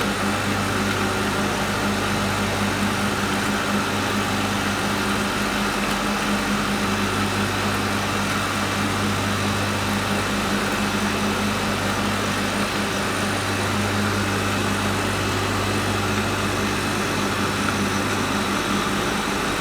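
Electric food-processing machine running steadily, its motor giving a constant hum over a continuous whirring noise.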